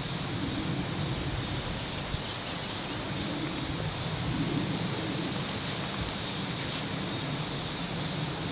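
Cicadas droning in a steady high-pitched chorus, over a low rumble.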